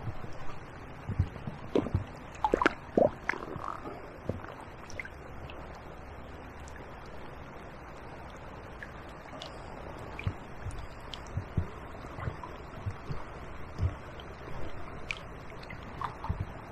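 Short, irregular splashes and sloshes of water, bunched near the start and again in the second half, as a barbel is slipped back into the river by hand. Under them runs a steady rush of flowing floodwater.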